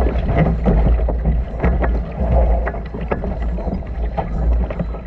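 Small sailboat under way: water splashing and rushing along the hull, with steady wind rumble on the microphone.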